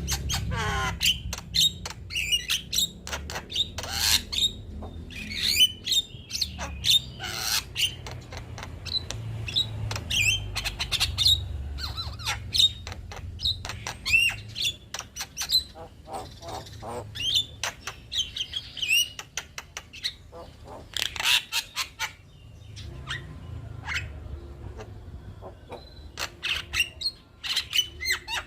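Male Javan myna chattering: a fast, varied string of squawks, clicks and short whistles with brief pauses.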